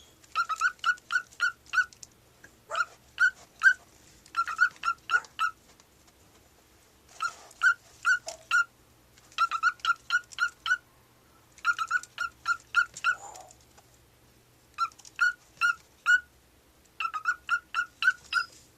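Cockatiel repeating a short whistled or talked note in quick runs of three to seven, about five a second, with brief pauses between the runs, echoing the owner's "up, up, up" prompt.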